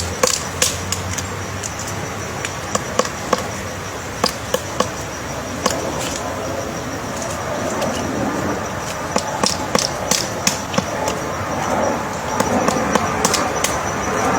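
Woodpecker pecking into wood to excavate a nest hole: irregular sharp knocks, some single and some in quick runs of three or four.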